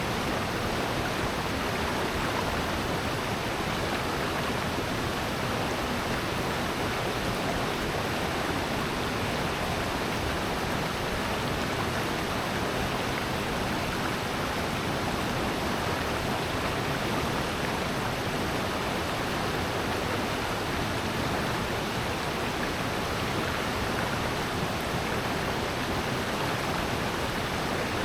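Water in a valley stream rushing steadily: a continuous, even hiss with no distinct events.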